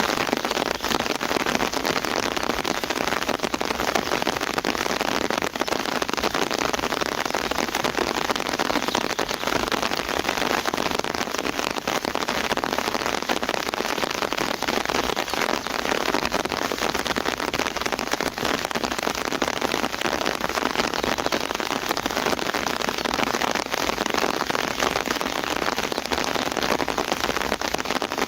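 Campfire burning beside a running river: a dense, steady crackle and hiss of many small pops over the rush of water.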